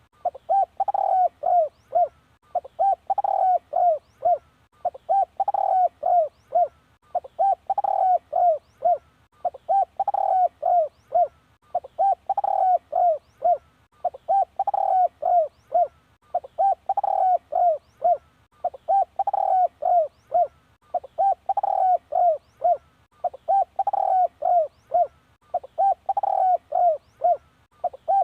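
Spotted dove cooing: a phrase of several short coos repeated evenly about every two and a half seconds. It is the kind of call used as a decoy to draw in wild spotted doves.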